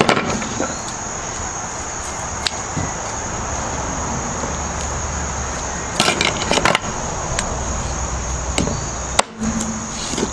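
Knife chopping and cutting through a chicken's breastbone on a cutting board: a few sharp knocks, with a quick cluster of them about six seconds in. Crickets chirr steadily behind.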